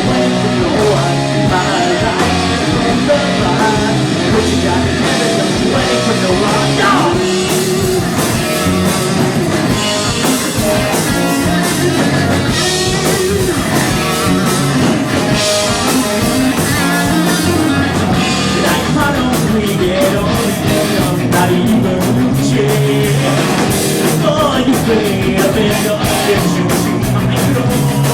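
Rock band playing live, with electric guitar, drums and singing, loud and steady throughout.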